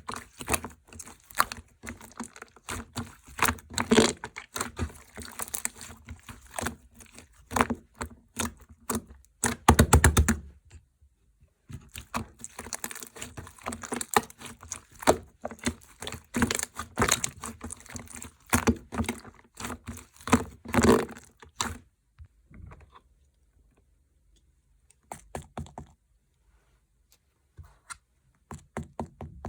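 Mixed slime being worked by hand, giving dense runs of sharp clicks and crackling pops, with a brief pause about ten seconds in. The clicking thins to a few scattered pops after about twenty-two seconds.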